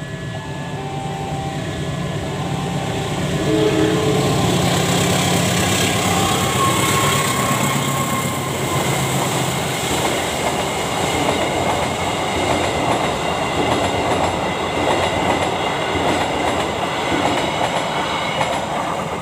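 Passenger train coaches running past on the rails at a level crossing, a loud rumble with wheels clattering over the rail joints. At the start the level-crossing signal's electronic warning tones are still sounding, and the train noise swells about three and a half seconds in.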